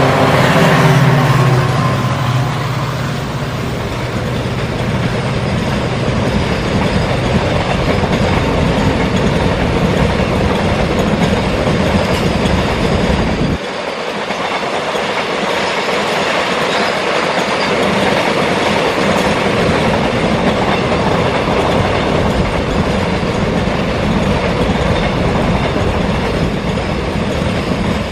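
EMD WDG-4 diesel locomotive's two-stroke V16 engine drone fading as it passes, followed by a long train of loaded container wagons rolling by with steady wheel clatter on the rails. The low rumble drops off suddenly about halfway through while the rolling noise carries on.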